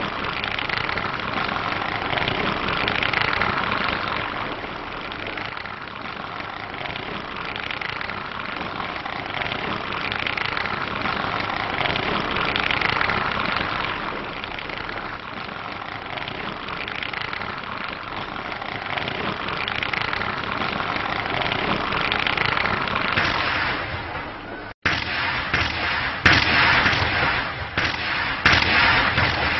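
Fireworks going off continuously, a dense noisy hiss and crackle that swells and fades every few seconds. About 25 s in the sound cuts out for a moment and returns louder, with sharp bangs and crackles.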